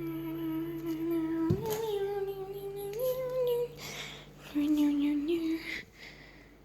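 A girl singing a few long, wordless held notes, stepping up in pitch and then starting again lower after a short breath.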